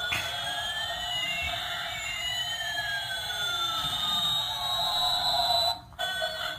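Electronic siren-like tones: one slowly rising in pitch while another slowly falls, the two crossing midway, over a steady hum, cutting out briefly near the end.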